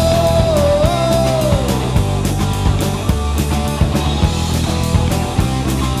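Rock band playing an instrumental passage between sung lines of a song, with a steady beat; a long held note bends down and fades out about two seconds in.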